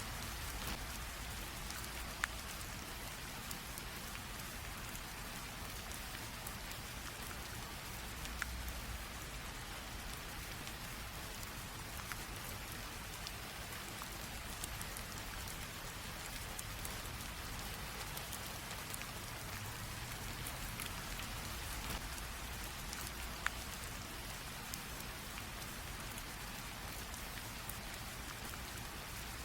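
Light rain drizzle falling steadily, an even hiss with a few sharper drop ticks scattered through it.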